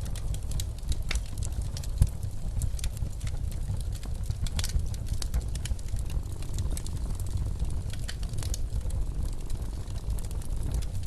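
Wood fire crackling in a fireplace, with irregular snaps and one louder pop about two seconds in, over the low steady rumble of blizzard wind.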